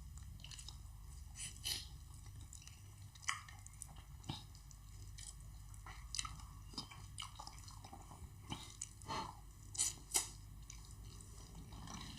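Close-miked mouth sounds of eating egusi soup and wheat fufu: scattered wet smacks, chews and small clicks, about a dozen over a steady low hum.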